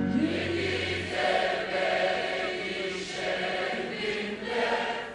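Music: a choir of voices holding long notes that swell and fade several times, as a low held note dies away about a second in.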